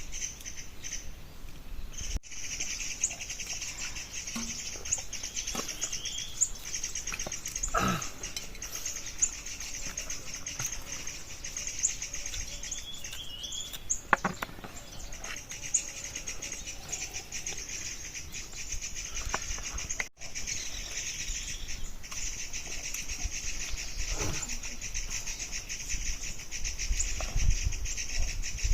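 Outdoor ambience dominated by a steady, high-pitched chorus of rapidly pulsing insects, with a few scattered short knocks.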